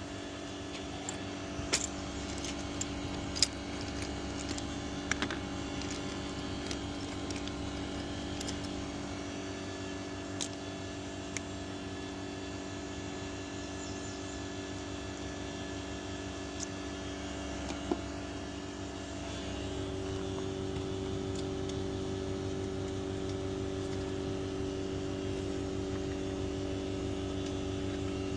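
Heat pump outdoor unit running with a steady hum, with scattered clicks and light metallic jangling of tools being handled in the first part; the hum grows a little louder about two-thirds of the way through.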